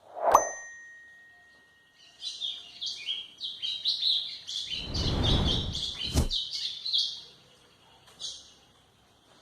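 White-throated seedeater (golinha) singing: a rapid, chattering run of high notes lasting about five seconds, with one short phrase after it. Just before the song there is a sharp click with a ringing tone, and a low rumble runs under the middle of it.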